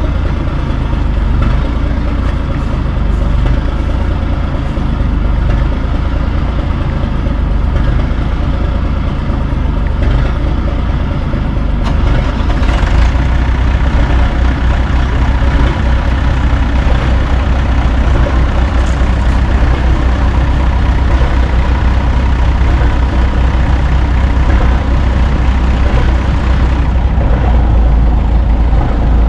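Heavy truck engine running steadily, a little louder and deeper from about twelve seconds in.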